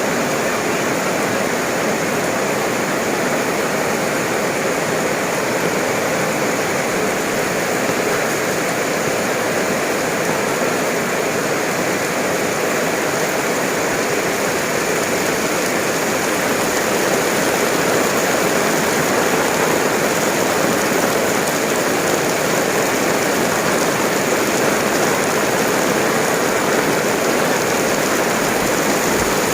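Heavy rain pouring down in a steady, even rush, growing slightly louder about halfway through.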